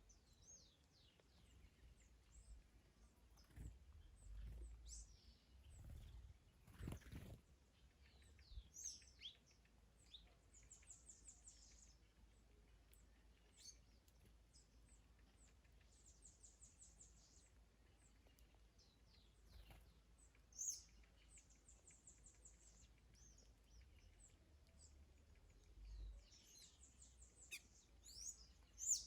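Faint birdsong from several small birds chirping, with a rapid high trill repeated every few seconds. A few low gusts of wind rumble on the microphone.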